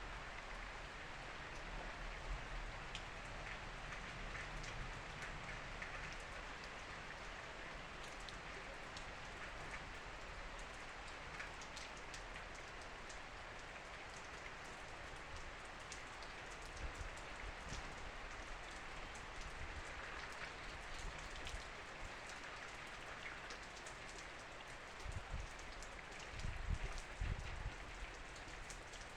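Heavy rain falling steadily, a constant hiss with many individual drops ticking on surfaces. Some low thumps come through near the end.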